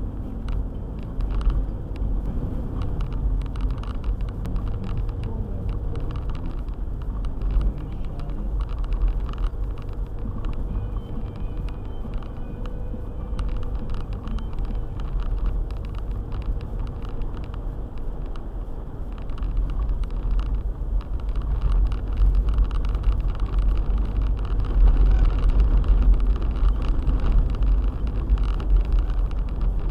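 Four-wheel-drive car driving on a snow-covered road: a steady low rumble of engine and tyres with scattered small knocks, getting louder over roughly the last third.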